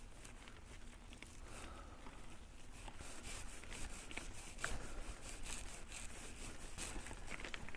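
Mountain bike climbing a steep cement slope: faint tyre-and-drivetrain noise over a low rumble, with a run of light clicks and ticks, about two or three a second, from the middle of the climb on.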